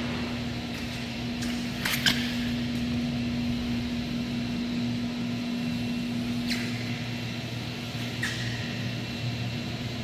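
Steady machine hum with one constant low tone, with a few short sharp clicks or knocks, the strongest about two seconds in.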